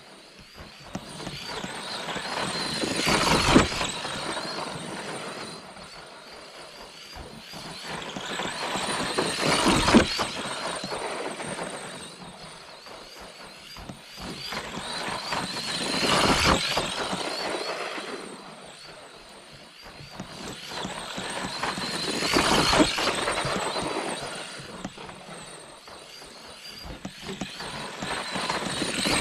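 Brushed Mega 550 motor and drivetrain of an ARRMA Granite 4X2 Boost RC monster truck driving, with motor whine and tyre noise. It swells and fades about every six and a half seconds as the truck comes close and moves away again.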